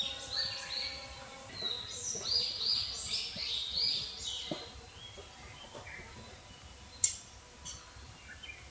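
A songbird singing a quick run of bright, high notes for the first four seconds or so, then fainter calls. A single sharp click about seven seconds in.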